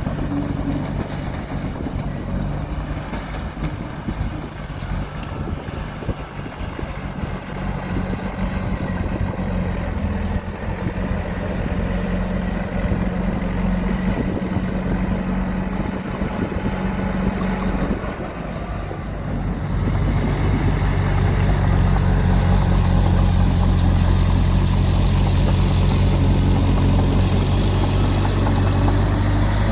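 Heavy diesel engine of earthmoving machinery running steadily, growing louder and deeper about two-thirds of the way through.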